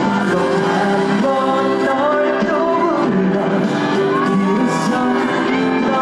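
A live trot song: a singer's voice over band backing.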